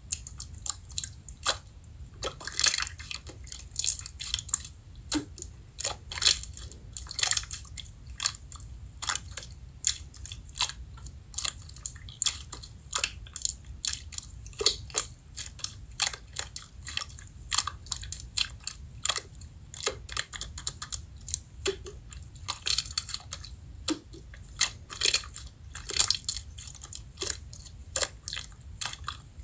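Slime being squeezed, pressed and stretched by hand, giving a run of sharp, irregular crackling clicks and pops, several a second.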